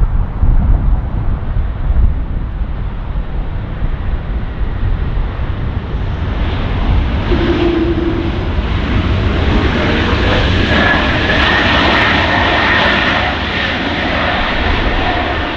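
Jet airliner's engines passing close: a deep rumble that builds into a loud roar with a high whine and a rising tone, then cuts off suddenly at the end.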